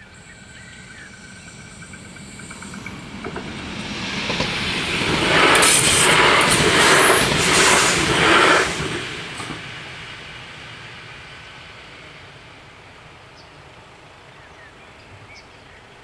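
Bombardier Talent 2 electric multiple unit passing over a level crossing. The wheel and rail noise rises as it approaches, is loudest from about five to nine seconds in, then fades away.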